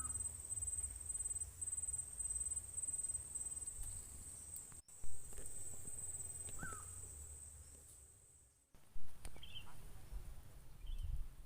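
Crickets trilling steadily in a high, pulsing tone, with two short chirps over it. The trill drops off after an edit about five seconds in and is gone by about eight seconds. A low rumble sits underneath.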